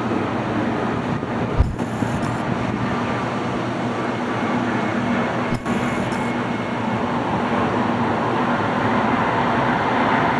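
Jet airliner engine noise at the airport: a steady rushing roar that grows louder near the end, with two brief knocks, one about a second and a half in and one about five and a half seconds in.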